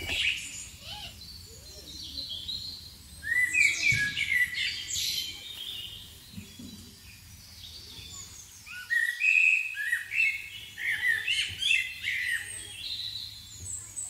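Small birds chirping in rapid runs of short, high chirps. A bout starts about three seconds in, and another runs from about nine to thirteen seconds.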